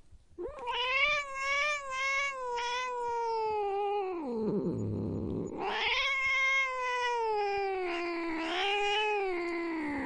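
A cat yowling: two long, drawn-out, wavering calls, each sinking at its end into a low growl, the warning yowl of an angry cat.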